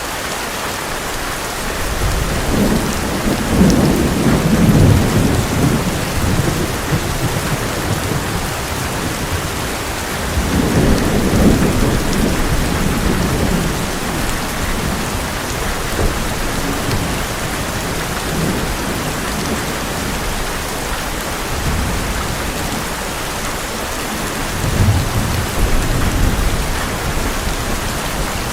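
Heavy rain drumming steadily on an old metal roof, with thunder rolling three times: a long low rumble about two seconds in, another around ten seconds, and a shorter one near the end.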